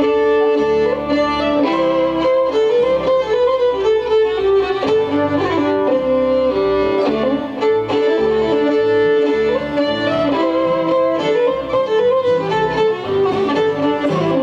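Fiddle playing a lively melody over strummed guitar, the band's instrumental intro to a bluegrass-style song.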